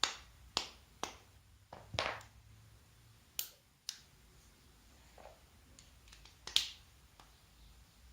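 About seven sharp clicks and light knocks at irregular intervals, the loudest near the start and about six and a half seconds in.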